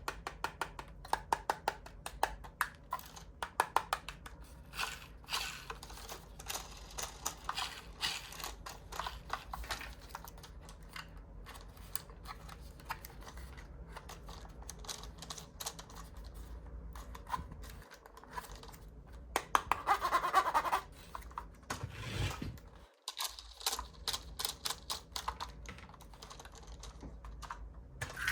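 Diecast toy cars being handled: rapid small clicks and taps, with a louder rustle about twenty seconds in.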